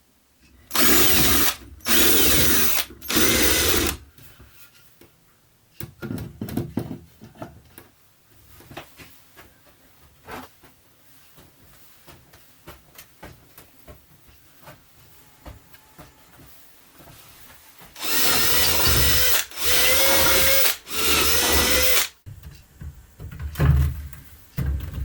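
Power drill running in three short bursts of about a second each, then a stretch of light clicks and handling noises, then three more bursts. A few sharp knocks come near the end.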